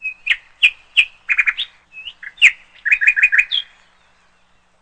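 A small bird singing: a string of sharp chirps and short whistled notes, some in quick runs of three or four, over about three and a half seconds.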